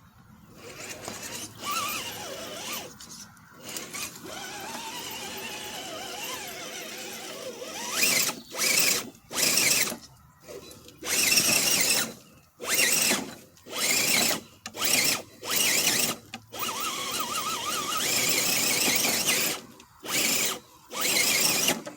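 Radio-controlled rock crawler's electric motor and geared drivetrain whining under throttle. It runs low and fairly steady at first, then from about eight seconds in comes in repeated short bursts roughly a second apart as the crawler struggles up a muddy climb.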